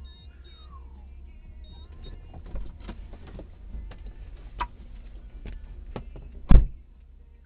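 Low road-and-engine rumble heard from inside a moving car, with scattered light clicks and knocks and one sharp, loud thump about six and a half seconds in.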